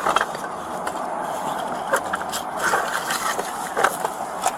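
Scattered clicks, knocks and rustling of objects being handled while a vehicle is searched, over a steady background hiss.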